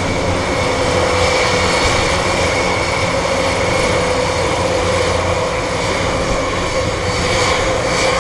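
Military aircraft engines running steadily at close range: a continuous loud rumble with a steady high whine over it.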